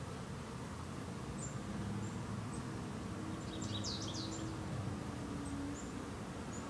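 Small birds chirping now and then, with a short burst of song about halfway through. Honeybees hum as they fly about the hive.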